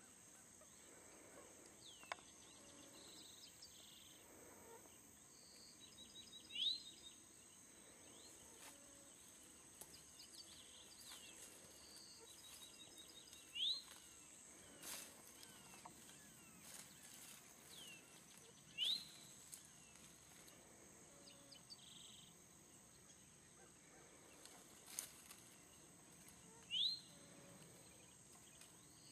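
Quiet outdoor ambience: a bird gives a short, sharp rising call four times, several seconds apart, with softer chirps between, over a faint steady high-pitched insect drone.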